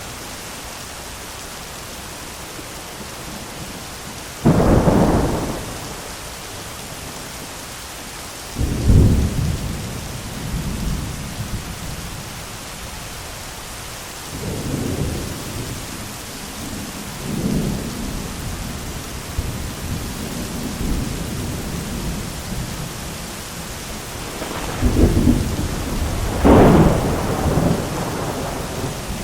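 Steady rain with repeated thunder: a sharp close crack about four seconds in, another heavy clap near nine seconds, lighter rolling rumbles in the middle, and a long double crash of thunder near the end.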